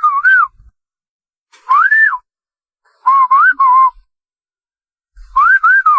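Someone whistling in short warbling phrases of a second or less, the pitch swooping up and down, with pauses between them; the last phrase starts about five seconds in.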